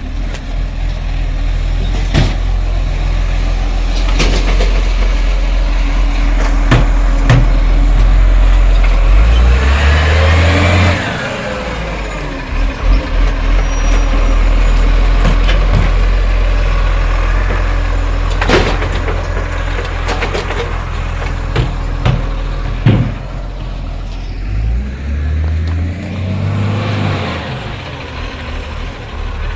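Side-loader garbage truck's diesel engine running steadily, revving up twice for a few seconds, as when it works its hydraulic bin-lifting arm. Sharp knocks and bangs are scattered throughout.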